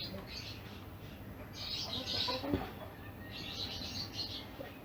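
Birds chirping in three short bursts, with a low steady hum beneath and a single sharp click about halfway through.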